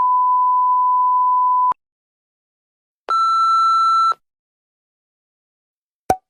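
Sound-effect beeps: a steady pure tone of about 1 kHz held for about two seconds, in the manner of a censor bleep, then after a short silence a higher, buzzier electronic beep with overtones lasting about a second. A single short click comes near the end.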